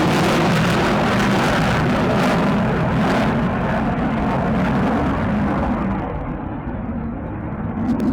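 Jet aircraft taking off with a loud, steady engine roar. About six seconds in, the hiss at the top falls away and the roar eases as the aircraft moves off.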